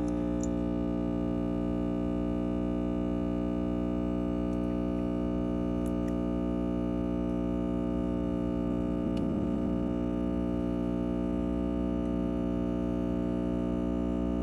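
Steady machine hum from an electric motor that has just spun up, holding one constant pitch throughout.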